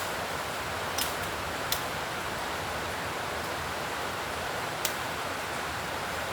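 A steady hiss with three short sharp clicks or snaps, about one second in, a little later, and near the end.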